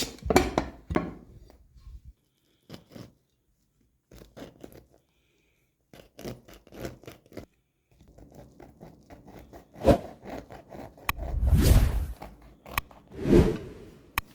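A kitchen utensil scraping and crunching through a crisp baked rice crust, in a run of short separate strokes that grow heavier near the end.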